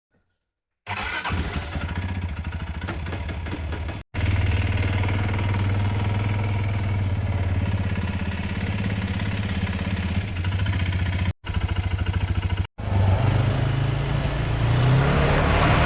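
Quad bike (ATV) engine running at a steady low pitch, starting about a second in and cut off abruptly a few times. It revs up with a rising, wavering pitch near the end.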